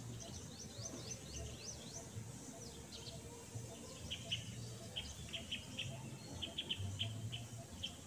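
Birds calling: a quick run of thin sweeping whistles, then from about four seconds in a string of short, sharp chirps, over a steady low rumble.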